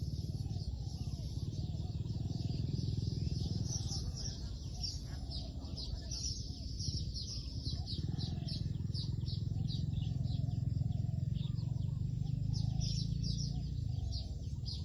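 Spotted doves cooing in repeated short phrases, with small birds chirping quickly and high over a steady low rumble.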